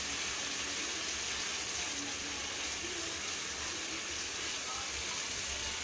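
Onion paste and whole cardamoms sizzling steadily as they fry in ghee in a steel kadhai, with a wooden spatula stirring and scraping against the pan.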